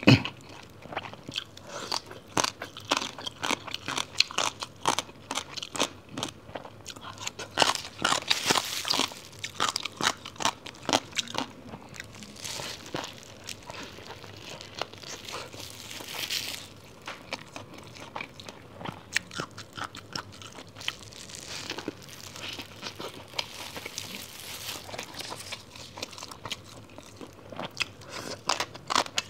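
Close-miked eating: a person biting into and chewing a large pancake wrap and crunchy spicy papaya shreds, with many short crunches and a few longer hissy stretches about a third and half of the way in.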